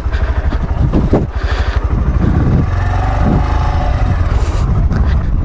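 Honda Grom's single-cylinder engine running as the bike is ridden, a fast steady pulse with small rises and falls in engine speed.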